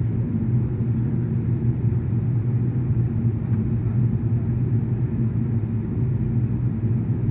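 Steady low rumble of a jet airliner's cabin noise in flight, engines and airflow running evenly with a steady low hum.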